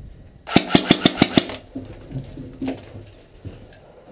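Airsoft gun firing a rapid burst of about seven shots in roughly a second, starting about half a second in.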